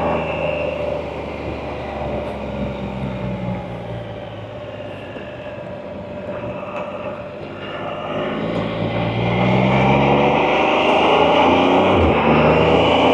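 Can-Am Spyder three-wheeled motorcycle engine heard on board, running quieter at lower revs after a left turn, then accelerating from about eight seconds in, its pitch climbing and the sound getting louder.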